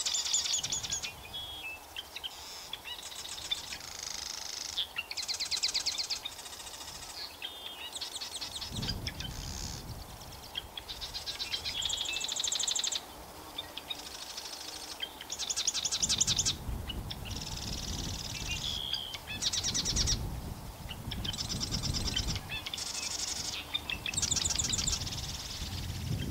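Birds chirping and trilling in a steady run of high phrases about a second long, one after another. From about nine seconds in, a low rumble of wind or distant noise rises and falls beneath them.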